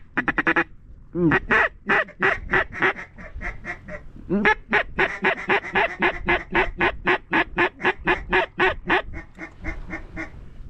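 Duck call blown in fast runs of loud, close quacks, about four to five a second, with a short burst at the start and then a long run that tapers off near the end: calling to bring in ducks over the decoys.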